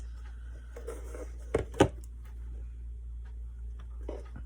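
Two sharp knocks in quick succession, about a quarter second apart, then a fainter knock near the end, over a steady low hum.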